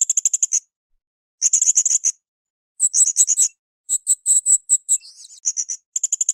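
Blue-crowned hanging parrot (srindit) singing: rapid, high-pitched chattering trills in a string of short bursts, each under a second, with brief pauses between them and a short buzzy note about five seconds in.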